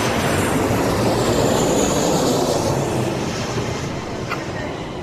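Jet airliner's engines passing close by, a steady rushing noise with a faint high whine, slowly fading over the last couple of seconds.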